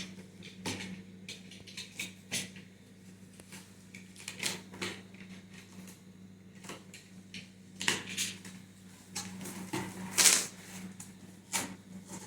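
A cardboard box and its packaging being opened and handled: irregular taps, knocks and short rustles, with a louder rustling scrape about ten seconds in, over a low steady hum.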